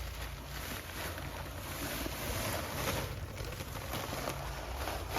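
Dry concrete mix pouring from a bag into a fence-post hole, a gritty hiss that swells around the middle. Low wind rumble on the microphone sits underneath.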